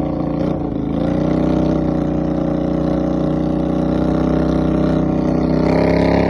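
Motor vehicle engine running at fairly steady revs, its pitch dipping briefly in the first second, then holding and rising slightly near the end.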